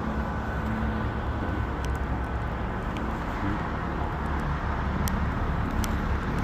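Snow-clearing machinery running steadily with a low engine rumble.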